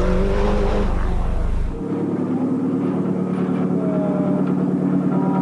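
Rally car engines running hard: one car for the first couple of seconds, then an abrupt switch to another engine holding a steady, even note.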